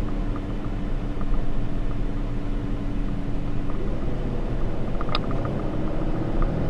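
Inside the cab of a 2013 Ram 3500 dual-rear-wheel pickup on the move: its 6.7-litre Cummins inline-six turbo diesel and the tyres make a steady low rumble. A faint hum steps up in pitch about four seconds in, and there is a short click about five seconds in.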